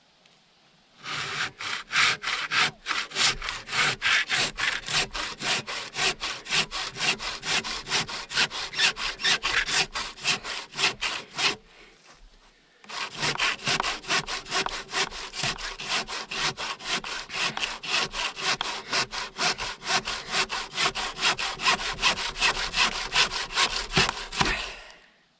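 Handsaw sawing lengthwise through a log in steady back-and-forth strokes. There are two long runs of strokes, with a brief pause about halfway through.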